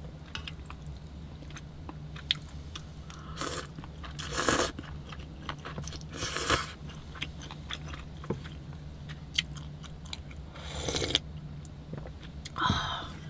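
Someone eating cold buckwheat noodles: chewing, with several short slurps and small clicks of utensils, over a steady low hum.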